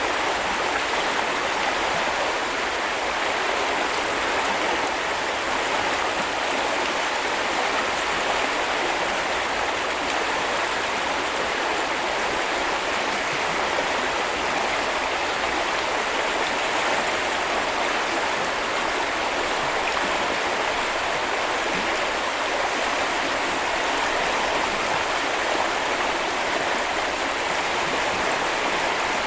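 Small river or brook flowing, a steady, unbroken rush of water that does not change.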